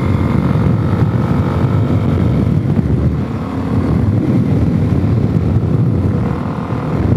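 Suzuki DR-Z400S single-cylinder four-stroke engine running steadily while the bike is ridden along a dirt road, its carburettor freshly rejetted. The level dips briefly twice.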